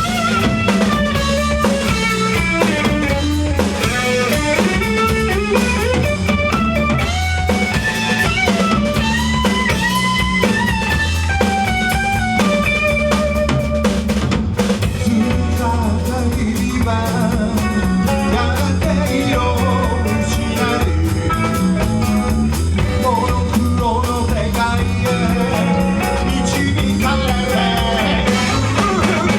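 Rock band playing live: drum kit and electric guitars over bass, with a melodic lead line bending in pitch above them.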